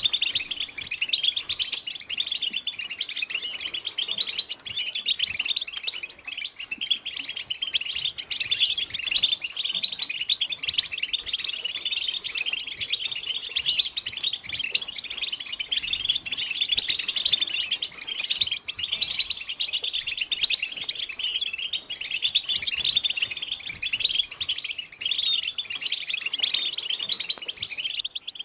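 A group of European goldfinches chattering and singing together: a dense, continuous twittering of fast, high chirps and warbles that cuts off abruptly near the end.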